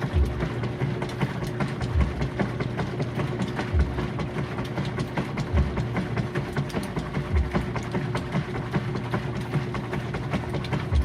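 GE Profile washing machine running, with a steady motor hum, light rattling clicks and a low thump about every two seconds as the load turns over.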